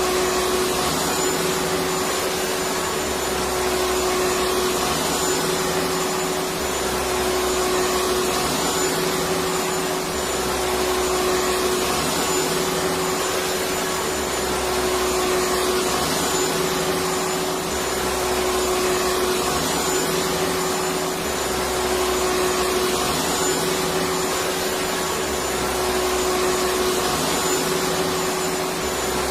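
Electric vacuum cleaner running steadily, its motor whine holding one pitch, with a low hum that swells and fades every few seconds.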